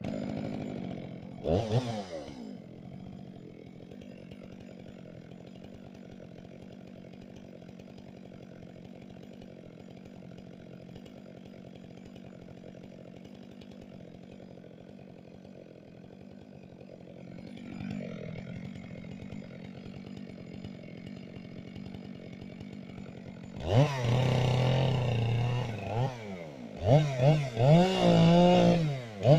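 Two-stroke chainsaw revved briefly about two seconds in, then idling steadily. Near the end it goes to high revs, loud, with its pitch repeatedly rising and dipping.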